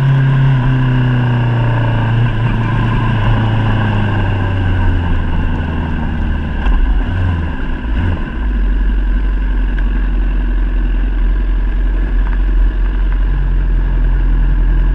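Honda CBR1000RR SP Fireblade's inline-four engine at low revs, its note falling steadily as the bike slows. About eight seconds in it settles to a steady idle as the bike stops.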